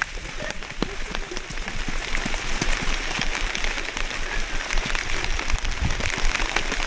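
Rain falling steadily: an even hiss with many close raindrops ticking.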